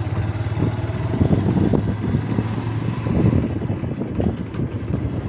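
Motorcycle engine running steadily under way, with uneven low buffeting over it.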